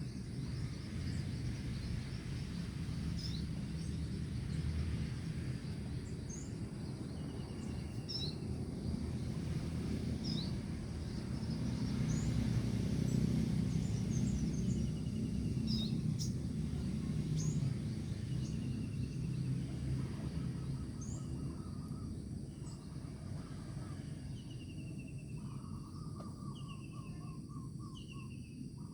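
Short, high bird chirps and peeps recurring every second or two over a steady low rumble of background noise; in the last few seconds a short lower trill joins in and the chirps come closer together.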